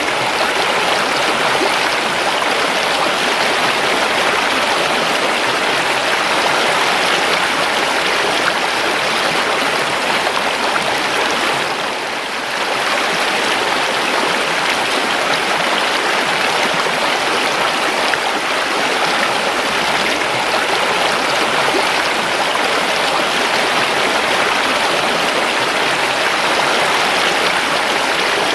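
River water flowing steadily, an even rushing babble, with a brief dip in level about twelve seconds in.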